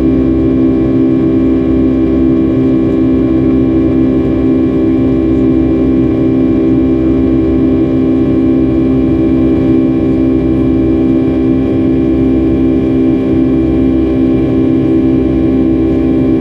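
Boeing 757-300's jet engines and rushing air heard inside the passenger cabin: a loud, steady drone with an even hum, unchanging throughout.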